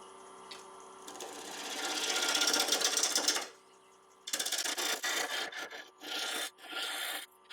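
Turning tool cutting wet black locust spinning on a wood lathe, over a faint steady lathe hum. One long cut builds up and stops about halfway through, then comes a run of short cuts about every half second.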